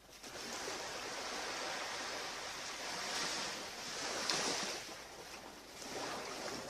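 Surf washing onto a beach, a steady hiss of breaking waves that swells louder around the middle and again near the end.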